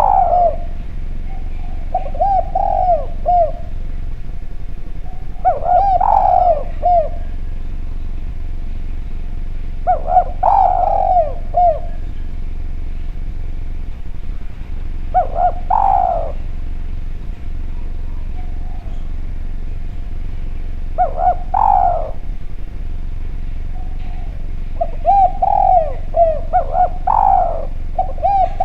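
Spotted dove (derkuku, tekukur) cooing: clear, repeated coo phrases, each a second or more long, coming every few seconds. A steady low hum runs underneath.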